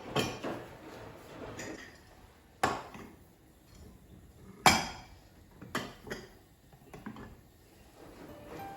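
Dishes and kitchenware being handled: a series of separate clinks and knocks, the loudest about four and a half seconds in.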